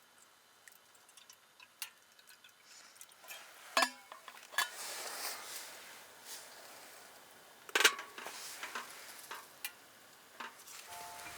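Metal cookware and utensils clinking, with scattered small clicks and a few sharp clinks that ring briefly; the loudest comes about eight seconds in. A soft hiss runs between the clinks around the middle.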